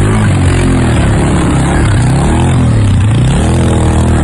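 Motorcycle engine revving hard and unevenly while the bike is ridden through a river, its pitch dipping and climbing several times.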